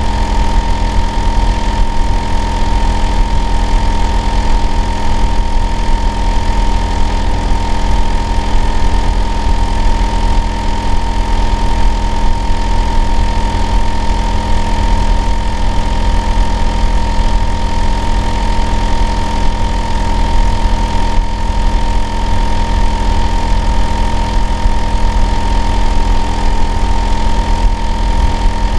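Hitachi air-conditioner outdoor unit running steadily: a loud low hum with a steady whining tone near 1 kHz over it. The uploader calls it an abnormal noise.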